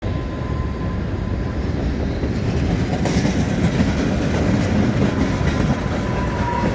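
Freight train rolling past close by: a steady heavy rumble of wheels on the rails, with a faint steady high tone over it.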